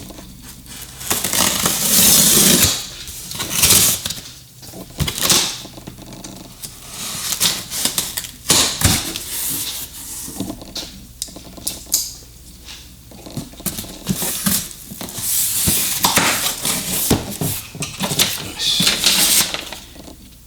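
A box of hood-hinge parts being unpacked: irregular rustling and crinkling of packaging, with sharp clicks and clinks from the parts being handled.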